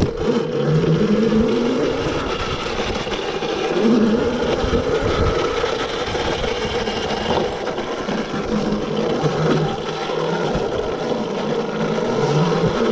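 Yozma IN10 electric dirt bike's motor whining, its pitch rising and falling several times as the throttle is opened and eased, over a steady rushing noise.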